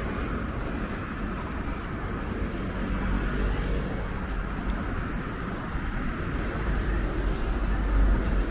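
Steady road traffic noise: a continuous low rumble of passing cars, with one vehicle hissing by about three seconds in.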